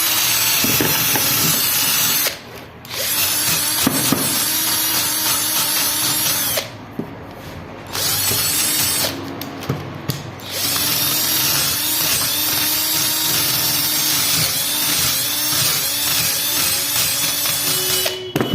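Electric drill with a wire brush attachment scrubbing rust and caked dirt off a window AC fan motor. It runs in stretches with three short pauses and stops near the end.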